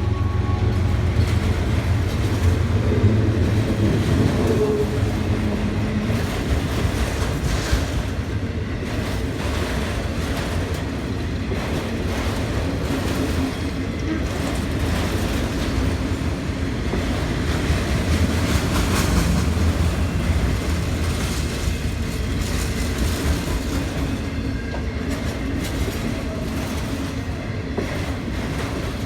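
Freight train of autorack cars rolling past in a steady rumble, its wheels clacking over the rail joints in a dense, continuous run.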